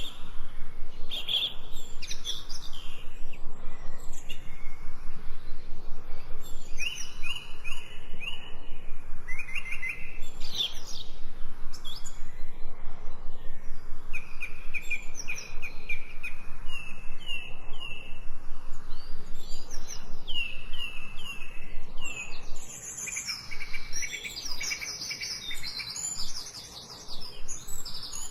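Several songbirds chirping and singing, with runs of short repeated notes and quick trills.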